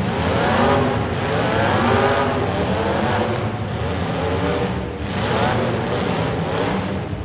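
Demolition derby cars' engines revving hard, several at once. Their pitch climbs and drops again and again over a steady low engine drone.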